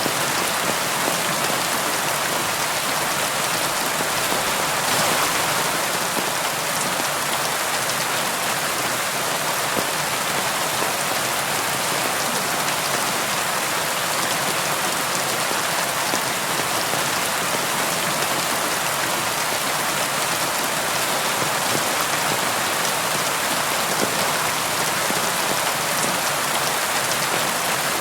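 Steady rain falling on a surface, an even hiss with fine pattering drops and no thunder.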